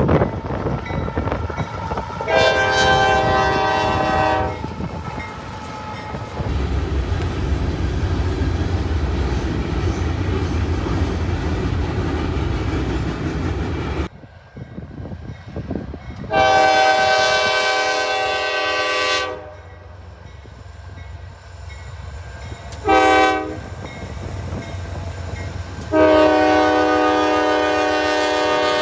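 Locomotive air horn sounding several times: a long blast about two seconds in, then later a long blast, a short blast and a long blast near the end, the pattern of a grade-crossing signal. Between the blasts a train rumbles by, and the background changes abruptly about halfway through.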